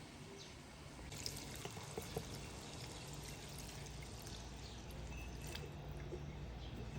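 Water pouring, with some dripping and a few light clicks.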